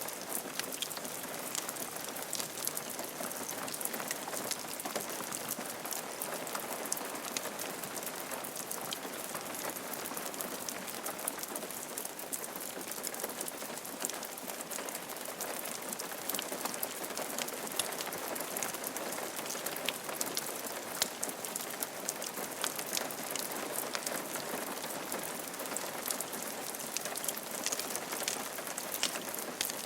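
Steady rain falling on a roof: an even hiss of many drops with fine individual drop ticks throughout.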